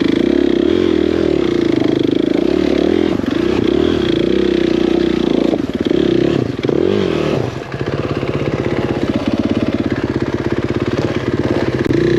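Dirt bike engine running close by under throttle while riding, its revs rising and falling, with a brief drop in revs about seven and a half seconds in before it picks up again.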